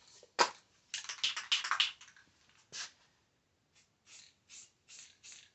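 Short bursts of aerosol spray paint hissing from a can as a missed spot on a plastic headlight part is touched up: one sharp burst, a quick run of bursts, then four brief puffs near the end.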